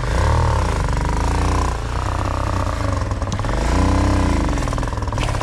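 Dirt bike engine revving up and down in two long swells as the bike is worked up a rocky climb.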